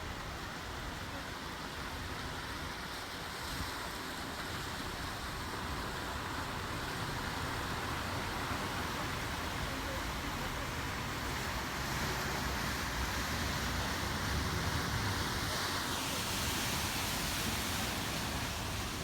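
Steady road traffic noise from passing cars, growing a little louder in the second half.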